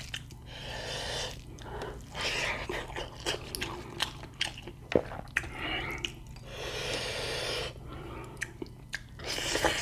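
Close-miked chewing and wet mouth sounds of someone eating spicy quail curry with rice, with scattered sharp clicks and smacks and a few breathy stretches in between.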